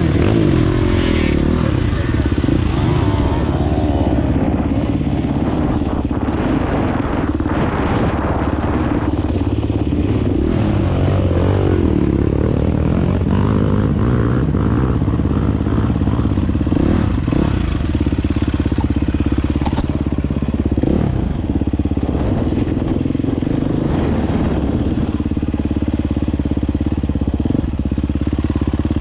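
Dirt bike engine running under way, its pitch rising and falling with the throttle, with scattered knocks and rattles.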